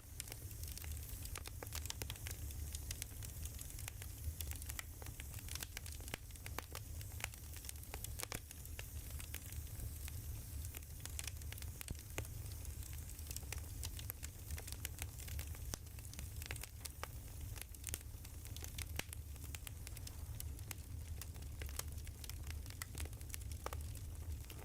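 Wood fire crackling, with irregular sharp pops and snaps over a steady low rumble and hiss.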